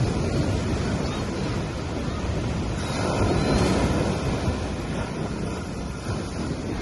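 Gentle sea waves breaking and washing up a beach, the surf swelling about halfway through and then easing.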